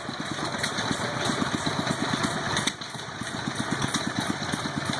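Old Cushman X21 gas engine running at a steady speed, driving a power hacksaw, its exhaust beating quickly and evenly, with a few sharp clicks partway through.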